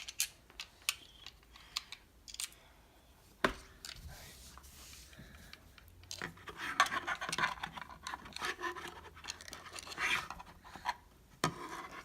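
Plastic clicks and scraping as the Nest thermostat base is handled and fitted against the wall plate: scattered clicks, a sharper knock about three and a half seconds in, then a stretch of busier scratching and rubbing.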